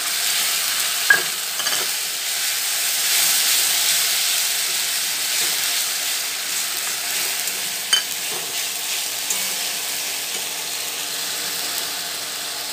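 Grated tomato frying with a steady sizzle in a kadhai among fried onions and ginger-garlic paste. It is stirred with a steel spatula that scrapes the pan, with two sharp clicks of metal on the pan, about a second in and near eight seconds.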